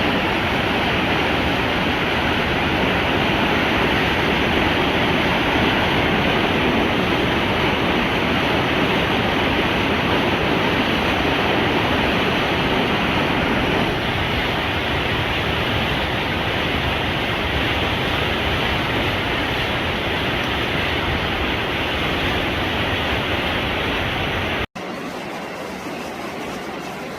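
Mountain valley stream rushing steadily. Near the end the sound cuts out for an instant and comes back quieter.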